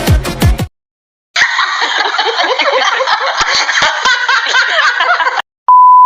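Laughter from several voices, snickering and giggling, for about four seconds, after an electronic dance beat cuts off and a brief pause. Near the end a steady high censor beep starts.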